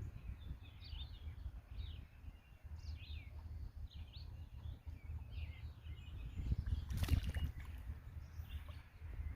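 Small birds chirping in short, repeated calls over a steady low rumble, with one brief louder noisy burst about seven seconds in.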